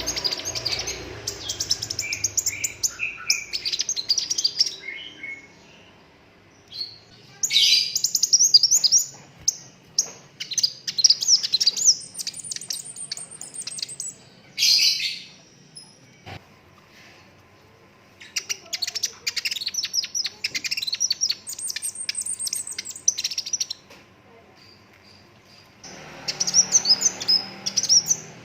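Sunbird singing: bouts of rapid, high-pitched trills and chattering phrases, a few seconds each, with short pauses between them.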